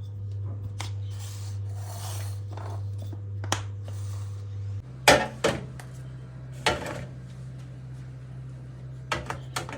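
Containers and jars handled and set down on refrigerator shelves: scattered clinks and knocks, the loudest about five seconds in and a quick cluster near the end, over a steady low hum.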